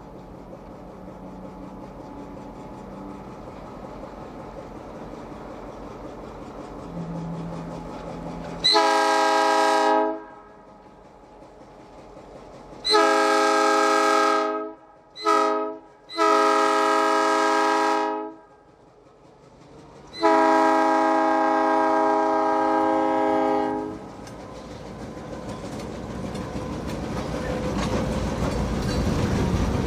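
Diesel freight locomotive sounding its multi-chime air horn in the grade-crossing pattern: long, long, short, long, then one more long blast. Near the end the train's engine and wheels rumble, louder as it draws near.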